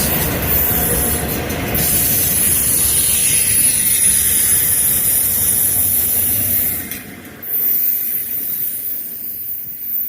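Freight train cars rolling past on the rails, a loud rumble with a thin high wheel squeal over it. The noise drops and fades over the last few seconds as the cars go by.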